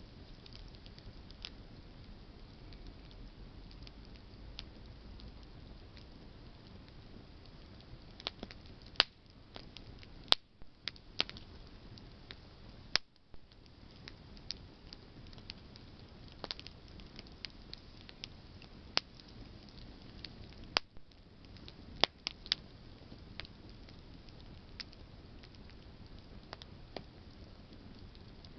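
Campfire of burning branches crackling: a low steady rush of flame with scattered sharp pops, the loudest of them bunched in the middle.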